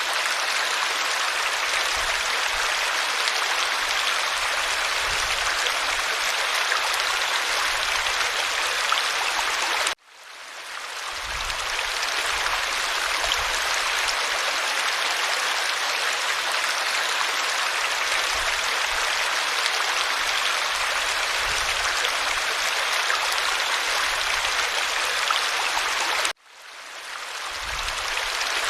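Steady rushing and babbling of a small stream or brook. It cuts out abruptly twice, about a third of the way in and again near the end, and fades back in over a second or two each time, like the seam of a looped recording.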